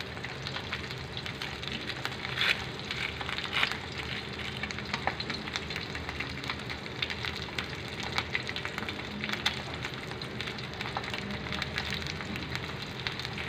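An egg and buttered bread slice frying on a flat iron griddle over high heat: a steady sizzle with scattered crackles. A plastic cheese-slice wrapper crinkles as it is opened.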